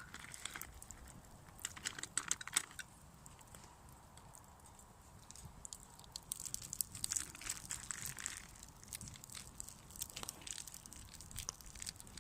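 Plastic food pouches being handled and torn open, crinkling in two bursts of irregular crackling, with scattered sharp clicks between.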